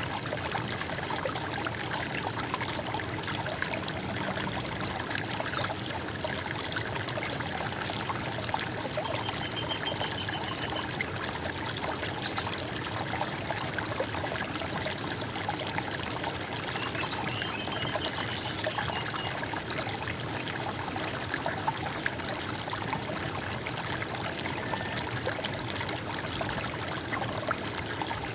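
Running water trickling and gurgling steadily, with a couple of faint bird trills about a third and two-thirds of the way in.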